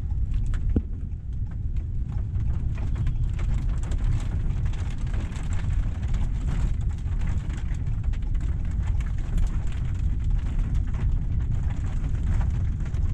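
Very strong thunderstorm outflow wind buffeting a car, heard from inside the cabin: a steady low rumble with many small ticks of blown dust and dirt hitting the car.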